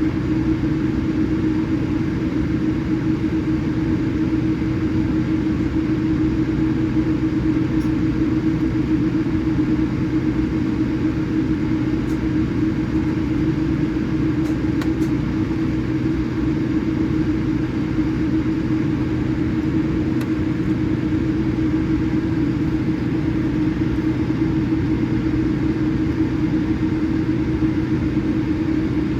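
Steady cabin rumble inside a Boeing 787-8 with its engines running on the ground, an even low drone with a constant hum.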